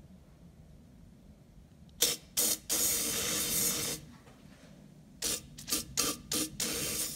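Aerosol can of PB B'laster penetrating oil spraying into a seized Bennett gas-pump meter to free it. It gives two short spurts, then a steady spray of over a second, and after a pause a run of quick spurts ending in a longer one.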